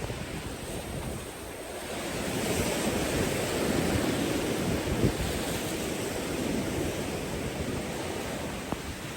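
Ocean surf washing onto a beach, with wind buffeting the microphone; the wash swells about two seconds in and eases off after the middle.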